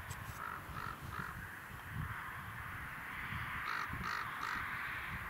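A bird calling in two runs of three short calls, each run about a second long: one soon after the start and one past the middle.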